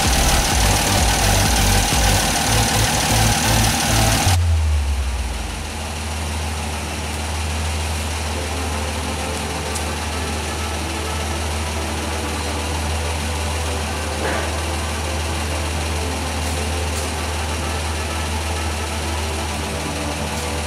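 Old car's petrol engine idling on its freshly rebuilt and tuned carburettor, heard close up with a steady pulsing rumble. About four seconds in, the sound cuts abruptly to a quieter, even low hum.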